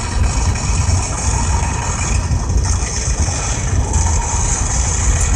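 Vehicle engine running steadily, a constant low rumble with a light hiss over it.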